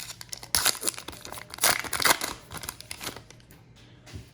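A trading-card pack wrapper being torn open and crinkled, in a few loud rustling bursts about half a second and two seconds in, then dying away.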